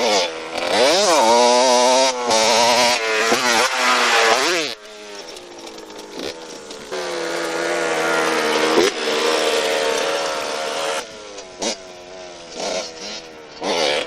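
Motorcycle engine revving. The throttle is blipped up and down a few times, then held at a steady higher speed for several seconds, then given short blips near the end.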